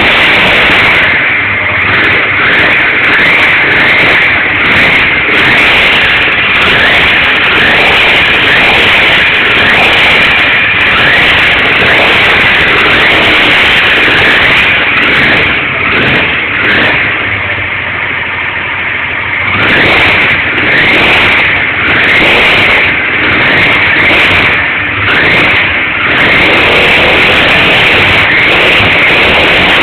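Honda Transalp's V-twin engine running and being revved repeatedly, with rises and falls in pitch and a quieter lull about two-thirds of the way through. This is its first run after a crash.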